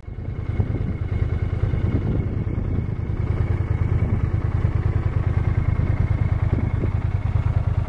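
Yamaha TDM900 motorcycle's parallel-twin engine running steadily at idle, a low even rumble.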